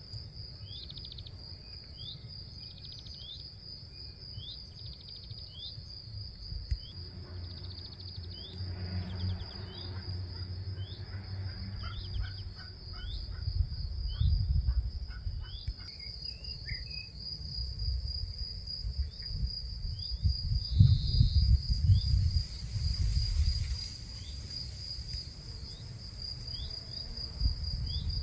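Insects trilling steadily on a high, pulsing note, with short chirps repeated about once a second. A low rumble comes and goes, loudest in the middle and about two thirds of the way through.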